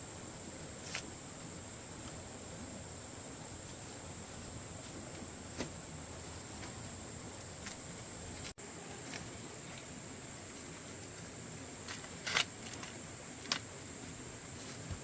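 A steady high insect drone over quiet outdoor ambience, with a few short sharp clicks and rustles scattered through it, the loudest cluster about three-quarters of the way through.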